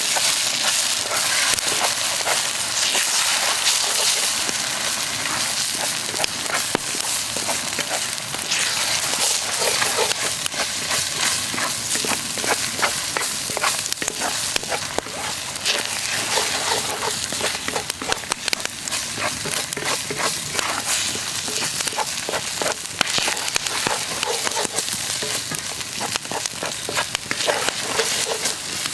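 Food frying over a campfire: a steady sizzle with many small crackles and pops throughout.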